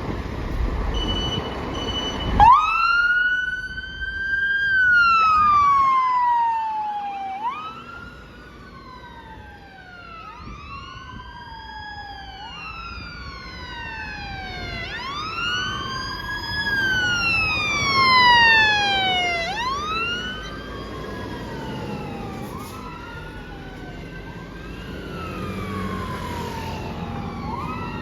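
Fire engine electronic sirens wailing. One siren starts about two seconds in over engine rumble, each sweep rising quickly and falling slowly, about every two and a half seconds. From about ten seconds a second siren wails out of step with it.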